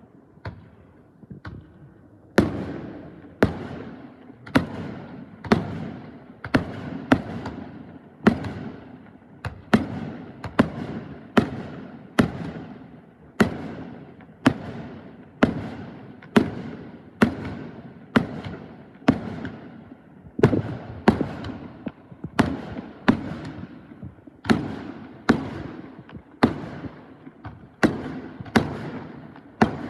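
Fireworks shells bursting in a rapid barrage: sharp bangs about once a second or slightly faster, each trailing off in a rumbling echo. The first two seconds hold only a few faint pops before the steady barrage begins.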